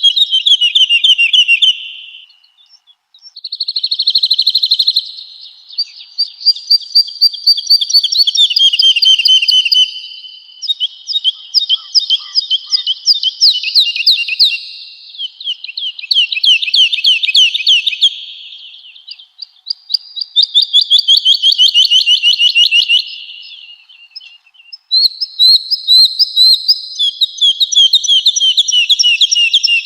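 Woodlark singing: phrase after phrase of rapidly repeated fluting notes, many trills sliding down in pitch, with two short pauses.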